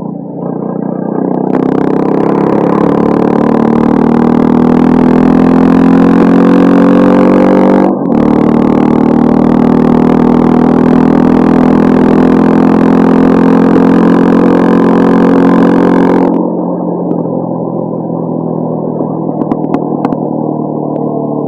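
Honda CB350 scrambler with a modified stock exhaust accelerating hard, its engine note rising steadily. A brief dip about eight seconds in is a gear change, and the pull then carries on. After about sixteen seconds the throttle closes and the sound drops to a quieter, duller run.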